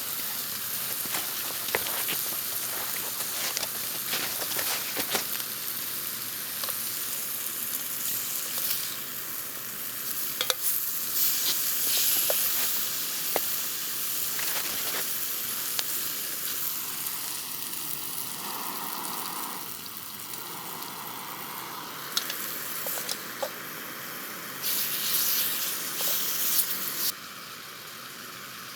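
Food sizzling as it fries in a pan, with scattered sharp pops and crackles. The sizzle drops away near the end.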